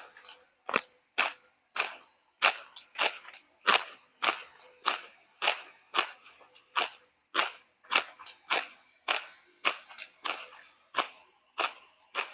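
Close-up chewing of crunchy food, a sharp crunch about twice a second.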